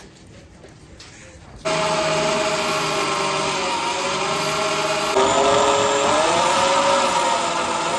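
A motor-driven machine starts abruptly about two seconds in and runs steadily with a droning hum whose pitch wavers a little, growing louder about five seconds in.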